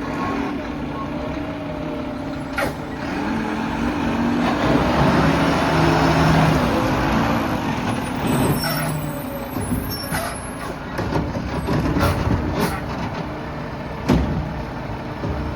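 Mack LR garbage truck's diesel engine running, revving up for a few seconds near the middle with a loud rush of hiss, while sharp knocks and clanks sound several times.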